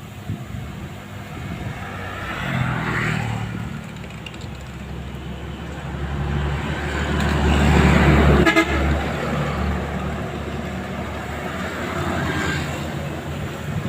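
Road traffic: vehicles passing one after another over a steady engine hum, the loudest about eight seconds in, with a horn sounding.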